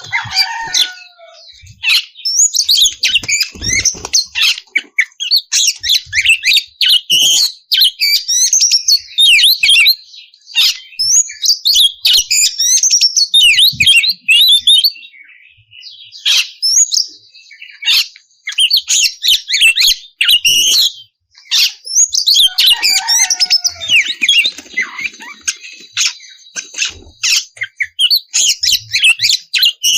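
Oriental magpie-robin singing a loud, continuous song of rapid, varied whistled notes and glides, with short pauses about 15 and 21 seconds in.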